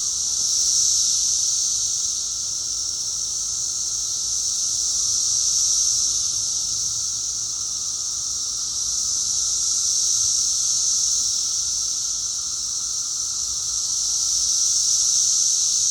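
Chorus of cicadas singing, a steady high buzz that slowly swells and fades every few seconds.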